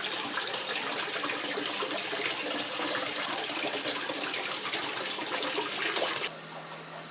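Aquarium water running out of a drain hose outlet, gushing and splashing steadily. About six seconds in, the sound cuts off abruptly to a quieter background with a steady low hum.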